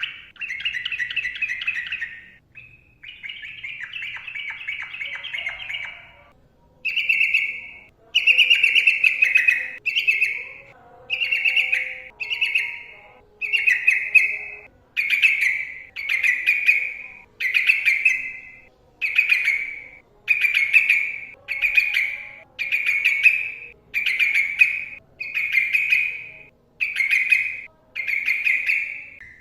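Yellow-vented bulbul (trucukan) singing: a few seconds of rapid, continuous chattering song, then the same short bubbling phrase repeated over and over, about once every second and a half.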